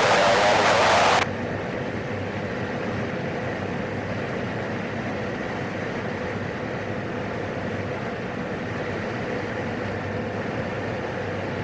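A loud burst of radio hiss that cuts off abruptly about a second in, then the steady drone of a PAC 750 turboprop's engine carried on the aircraft's intercom audio.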